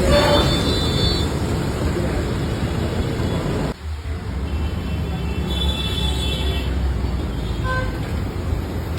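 Busy street traffic noise, steady and loud, with a high-pitched vehicle horn sounding near the start and again about six seconds in. The noise drops out briefly just before the four-second mark.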